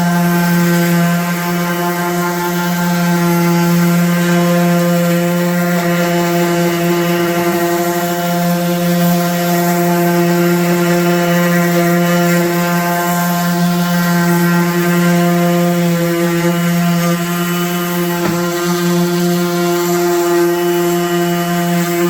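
Electric sander running steadily against wooden table boards, giving a constant pitched hum that holds the same tone throughout.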